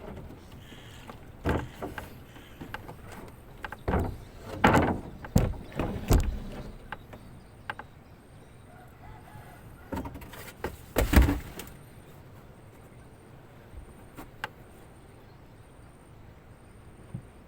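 A series of irregular knocks and thuds, some single and some in quick clusters, the loudest about eleven seconds in; after about twelve seconds only a few faint ticks remain.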